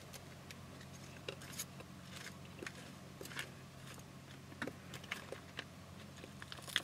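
Faint chewing of a mouthful of salad with almonds: irregular soft crunches and clicks, over a steady low hum.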